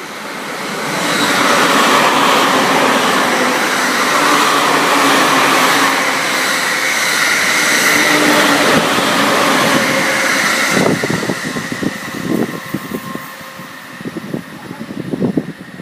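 JR East E217 series electric train running, a loud steady rush of running noise with several steady tones through it, building over the first couple of seconds. About eleven seconds in the loud noise cuts off suddenly, leaving quieter uneven knocking and rumble.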